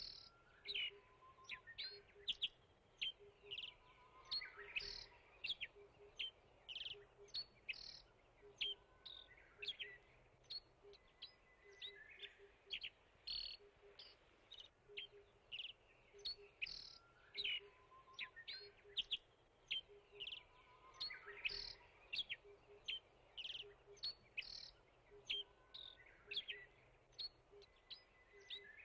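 Woodland birds singing: many short, high chirps and calls from several birds overlapping. A faint low note pulses steadily underneath.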